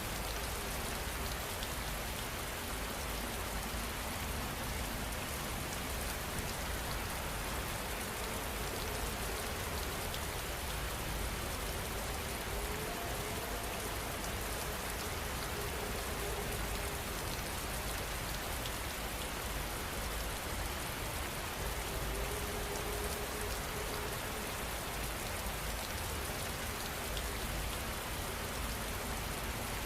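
Rain falling steadily, an even, unbroken hiss with no thunder.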